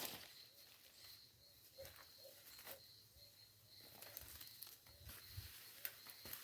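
Faint outdoor ambience: a steady high thin tone with scattered soft clicks and rustles, and a few faint short chirps.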